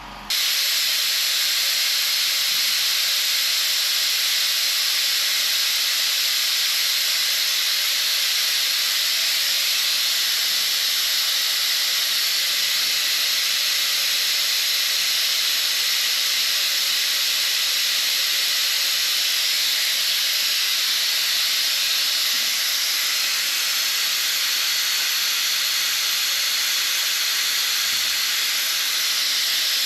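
Vacuum brake bleeder running with a loud, steady hiss that switches on abruptly at the start, drawing brake fluid and air out through a front caliper's bleed nipple while bleeding the brakes.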